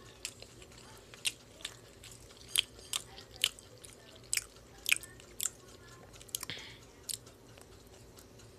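Close-up chewing of shrimp: irregular wet mouth clicks and smacks, a few of them sharp, with a short hiss about six and a half seconds in.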